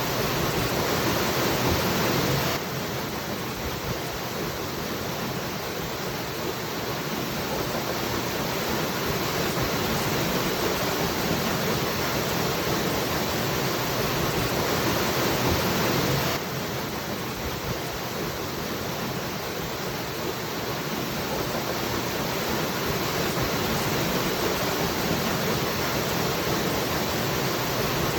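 Waterfall: a steady rush of falling water. The level drops suddenly about two and a half seconds in and again about sixteen seconds in, each time building slowly back up.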